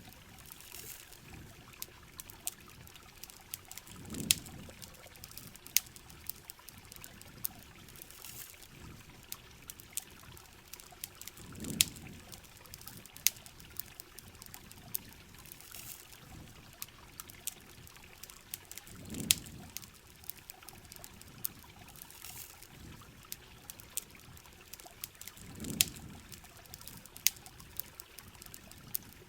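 Rain and running water trickling and pouring, with sharp campfire crackles scattered throughout. A short low swell of pouring water comes four times, about seven seconds apart.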